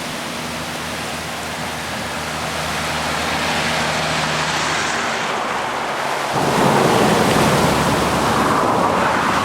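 Swollen, flooding Yakima River rushing past, a steady wash of water noise that grows louder about six seconds in.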